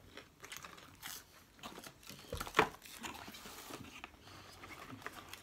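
People chewing and eating chicken nuggets quickly, making mouth noises and scattered small clicks and rustles, with one sharper click about two and a half seconds in.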